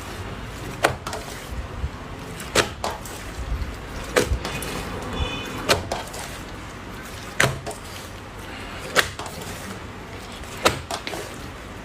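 Slime being squeezed and pressed by hand, giving sharp pops or clicks about every second and a half, each trailed by small crackles.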